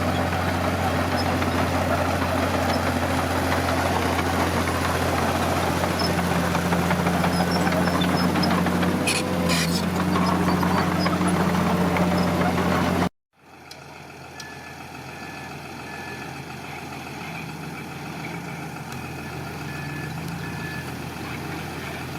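Heavy earthmoving machine's diesel engine running hard at steady revs, with a couple of sharp metallic clanks about nine seconds in. After a sudden cut, a quieter diesel engine with a reversing alarm beeping in short runs of about three beeps.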